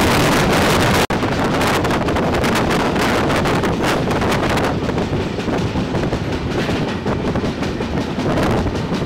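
Express passenger train running at speed, with strong wind rushing past the open window onto the microphone. The sound breaks off for an instant about a second in and resumes, slightly less hissy.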